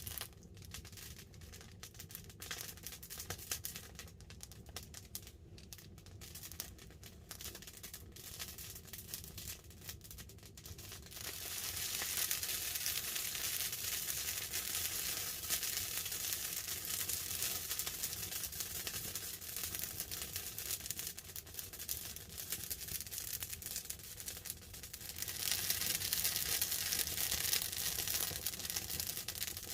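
Wood fire crackling under a tarp with light rain pattering on it. Sparse pops at first; about eleven seconds in, a dense, steady crackle sets in, and it grows louder again near the end.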